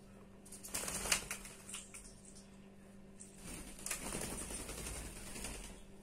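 A myna bird moving about on a sheet of newspaper: quick taps and rustling of its feet on the paper, in a short spell about a second in and a longer one from about the middle until near the end.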